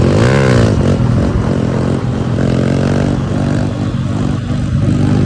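Pit bike engine running close by, revving up and back down once in the first second, then running on at a fairly steady throttle.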